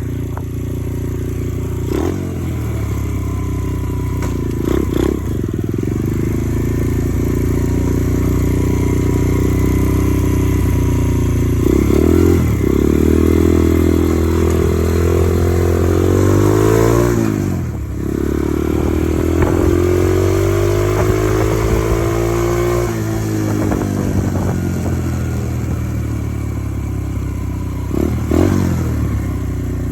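Dirt bike engine running while ridden, revving up and easing off. Its pitch climbs in steps, drops sharply about eighteen seconds in, then climbs again and falls away.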